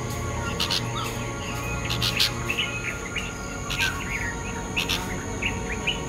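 Birds chirping: about a dozen short, sharp, high calls at irregular intervals, over a steady high insect-like whine and a low hum.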